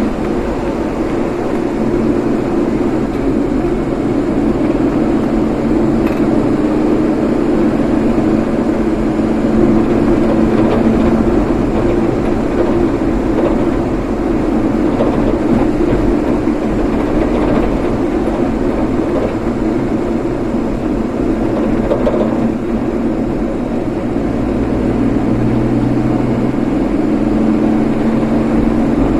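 Car driving steadily: a constant engine hum with road and tyre noise.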